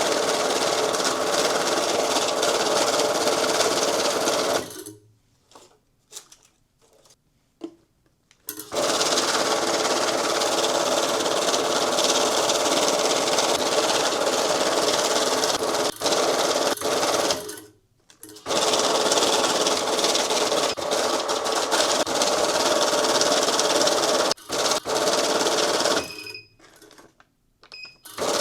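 Electric bill-counting machine running fast through stacks of banknotes, stopping three times between batches, with two short beeps in the last pause.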